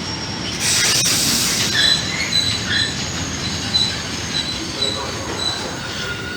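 Freight train rolling through a station, its wheels squealing in short, high-pitched chirps over a steady rumble, with a loud hiss about half a second in.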